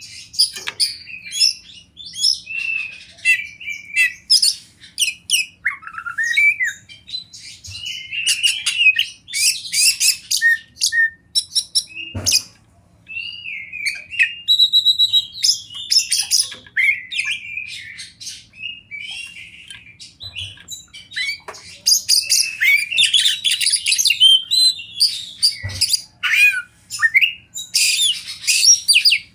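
Oriental magpie-robin (kacer) singing a long, varied song of rapid whistled notes and phrases, broken by short pauses.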